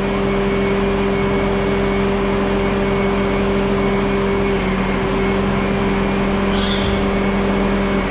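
Bobcat S650 skid steer's diesel engine running steadily at high throttle, with a brief hiss about six and a half seconds in.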